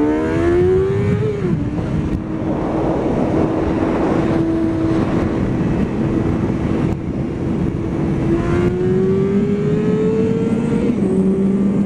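Motorcycle engine accelerating under way. Its pitch climbs and drops sharply at an upshift about a second in, holds steady, then climbs again and shifts once more near the end, over a steady rush of wind noise.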